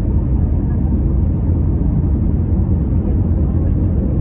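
Steady low rumble of an Airbus A321neo's cabin noise, its CFM LEAP-1A engines and the airflow heard from inside the cabin, holding even throughout.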